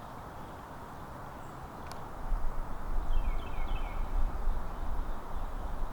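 Outdoor ambience with low, uneven rumbling on the microphone starting about two seconds in, and a sharp click just before it. A bird call of a few quick falling notes is heard faintly near the middle.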